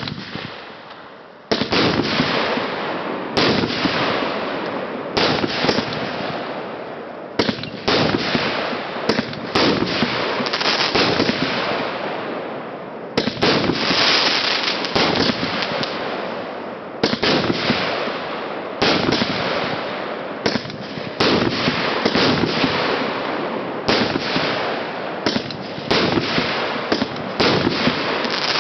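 A 50-shot consumer fireworks cake (salute battery) firing its shots one after another, one every one to two seconds. Each sharp shot is followed by a dense crackling noise that fades as the next shot comes, so the noise never stops.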